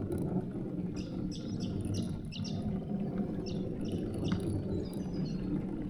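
A bird calling in a run of short, high chirps over a steady low rumble.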